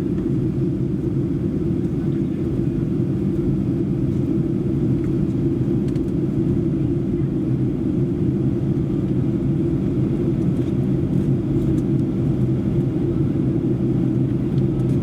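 Cabin noise of a Boeing 737-800 in flight or on the ground: a steady low rumble of its CFM56 engines and the airframe, heard from a seat behind the wing.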